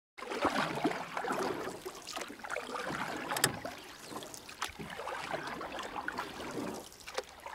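An ambient sound effect of water lapping and splashing, made up of an irregular stream of small splashes and clicks. It starts suddenly after silence.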